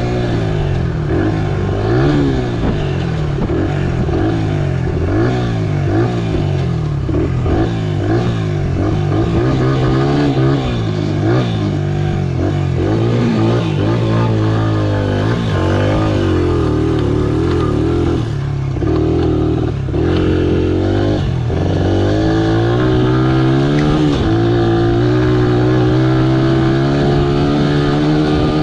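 Honda XR100R's single-cylinder four-stroke engine pulling the bike along, its pitch rising and falling again and again as the throttle opens and closes and the gears change, then holding steadier near the end.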